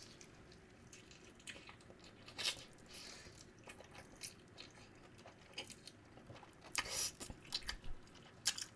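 Close-miked biting and chewing of sauced fried chicken: moist chewing with a few sharper crackles, the loudest about two and a half seconds in and again around seven seconds.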